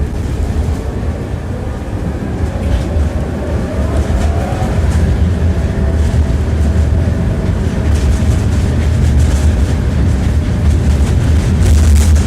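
Tram running on rails, heard from inside the car: a steady low rumble with the clack of the wheels over rail joints. A faint whine rises in pitch about four seconds in, and the sound grows slowly louder.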